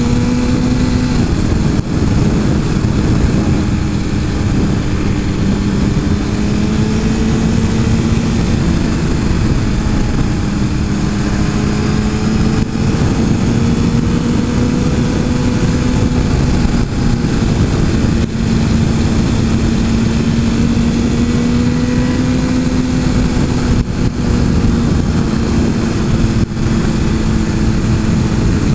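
Suzuki GSX-R 1000's inline-four engine running at a steady cruising speed, its note rising and falling gently through the corners. Heavy wind rush on the microphone runs underneath it.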